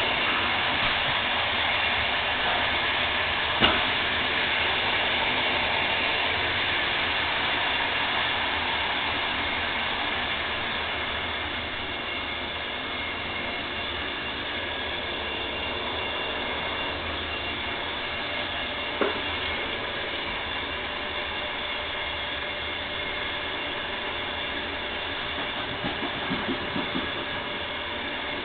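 VR Intercity train arriving at a station: a steady rail hum with several steady tones, easing a little after about ten seconds. A sharp click comes about four seconds in and another about nineteen seconds in, with a few small clicks near the end.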